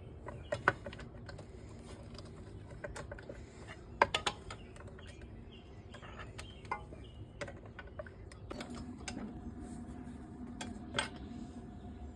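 Scattered metallic clicks and clinks of hand tools and fasteners, a few sharp knocks among them, as parts are taken off a small dirt bike. About two-thirds of the way through a faint steady hum sets in.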